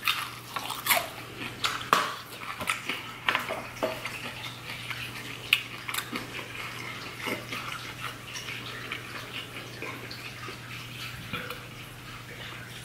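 Close-miked wet chewing and lip-smacking of a mouthful of sauce-coated seafood, with many sharp mouth clicks, thicker in the first few seconds and thinning out after that.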